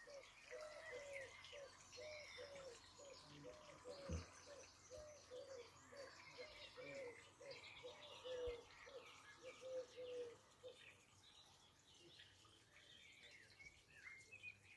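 Faint garden birdsong: a steady run of short, low repeated calls, about two a second, that stops about ten seconds in, over scattered higher chirps and twittering from other birds. A soft knock about four seconds in.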